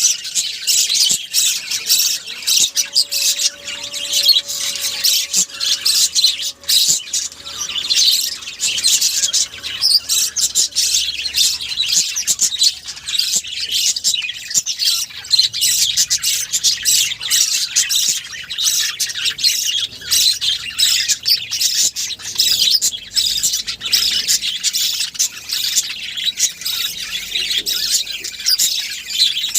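A flock of small birds chirping, chattering and squawking continuously, with many high-pitched calls overlapping.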